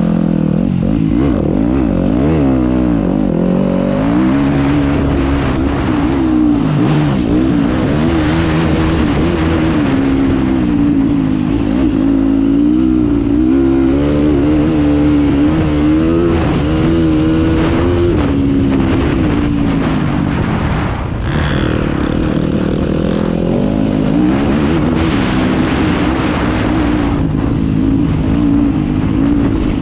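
Motocross bike engine heard from the rider's helmet camera, revving hard and falling back over and over with throttle and gear changes as it laps the track.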